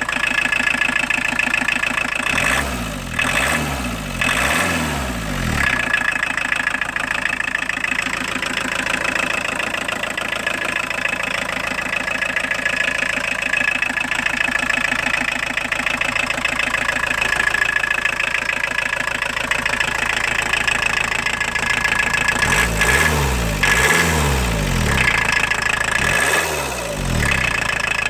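VW Golf engine in an Audi 80 idling, with a steady high-pitched ringing note over the idle, blipped in quick revs a few times near the start and again near the end. The owner counts the engine's noise as a problem to be fixed.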